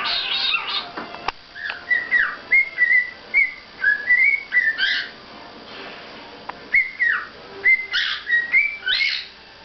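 Cockatiel whistling runs of short notes that step up and down, with a few quick downward swoops, in two bursts with a pause in the middle.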